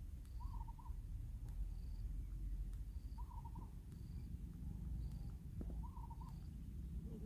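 A bird repeating a short call of a few quick notes three times, about every three seconds, with faint high peeps in between over a low rumble.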